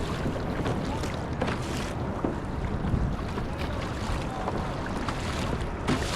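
Water splashing against a kayak hull on the ocean under steady wind noise on the microphone, with a few short knocks and splashes.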